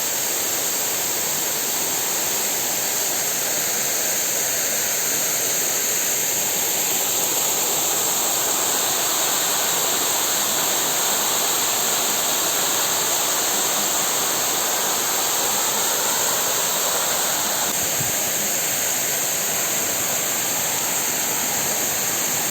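Waterfall's falling water making a loud, steady rushing noise with no let-up.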